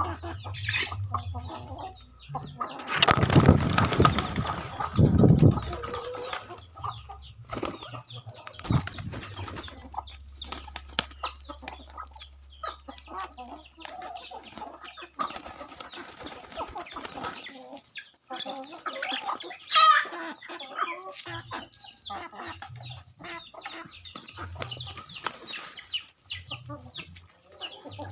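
Chickens clucking while pigeons and chickens feed, with a loud flurry of flapping wings about three to five seconds in and a shorter one later. Many small ticks run throughout.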